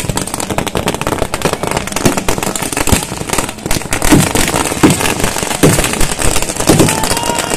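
Multi-shot "sky shot" firework battery firing: dense, continuous crackling and popping with repeated sharp bangs. A steady high whistle starts near the end.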